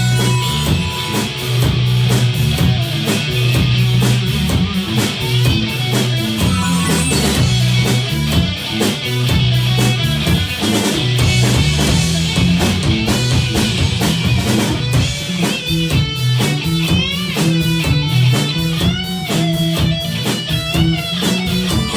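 Rock band playing an instrumental break: an electric guitar takes the lead over bass and a drum kit keeping a steady beat, its notes bending and wavering more in the second half.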